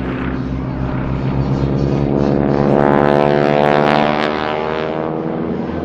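Two SNJ Texans' Pratt & Whitney Wasp radial engines and propellers drone in a steady stack of tones as the pair flies past, swelling to a peak about three to four seconds in and then easing off.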